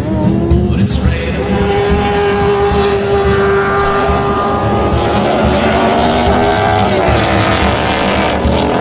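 C4 Corvette race car's V8 engine running hard on track, its pitch climbing in the first second, then holding fairly steady.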